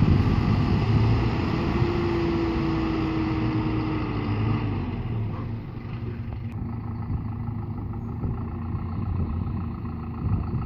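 Dump truck's engine running steadily, with a held whine from about two seconds in for a couple of seconds; the engine sound drops lower about halfway through, and there is a single click near the middle.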